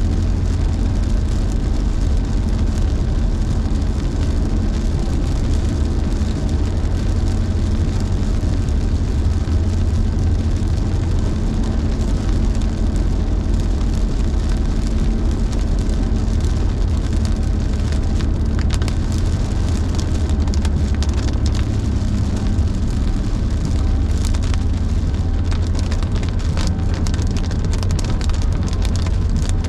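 Car in motion in heavy rain, heard from inside: a steady low rumble of engine and road, with rain hitting the car. Drops tick more often on the car from the middle of the stretch on.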